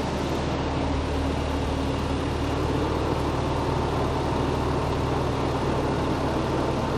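Large rally trucks' diesel engines idling steadily at a low, even hum.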